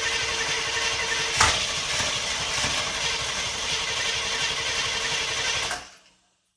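Chevrolet 454 big-block V8 running on a stand, with one sharp pop about a second and a half in. The engine sound cuts off near the end.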